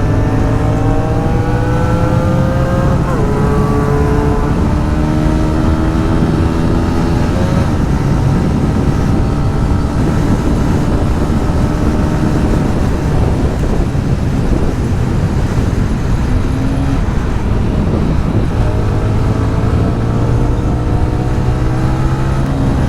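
Small 125 cc motorcycle engine accelerating through the gears. Its pitch climbs and drops back at shifts about 3 and 7 seconds in, then climbs again near the end, over a steady rush of wind on the microphone.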